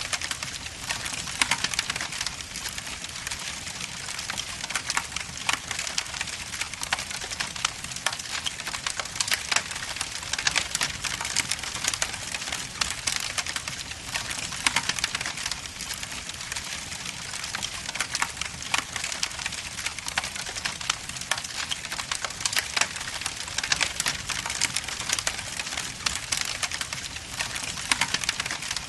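Wood logs burning in a fireplace, crackling and popping steadily with many sharp snaps over a soft hiss.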